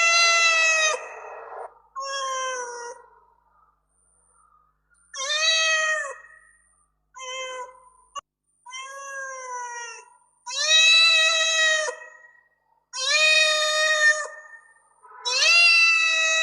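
Domestic cat meowing over and over: a series of about seven meows, some long and drawn out, others short with a falling end, separated by brief pauses.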